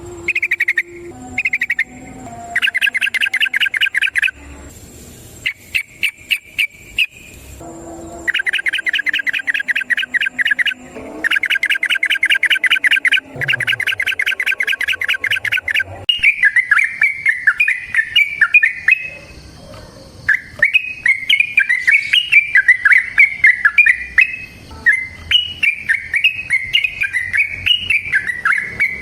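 Yellow-vented bulbul (trucukan) singing: repeated bursts of long, very fast trills, then more varied bubbling phrases that jump up and down in pitch from about halfway through.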